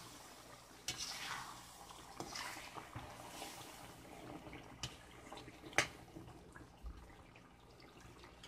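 Metal spoon clinking against the pan as simmering chicken gravy is stirred and checked, over a low bubbling hiss; a few sharp clinks, the loudest about six seconds in.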